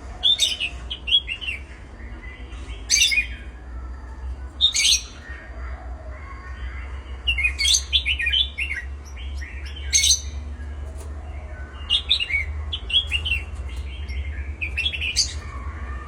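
Pet birds chirping: short, sharp calls in clusters every second or two, each with a quick run of falling notes, over a steady low hum.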